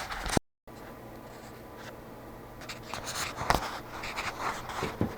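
Faint handling noises, scraping and a few short knocks, over a steady low hum, after a brief cut to silence near the start.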